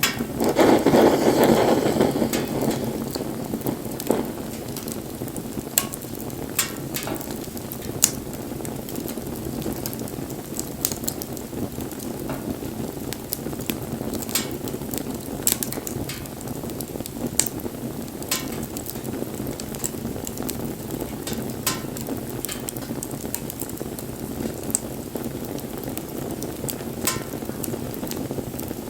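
Wood bonfire burning: a steady rush of flames, with sharp crackles and pops from the burning wood every second or so. A louder rush of noise swells in the first two seconds and then settles.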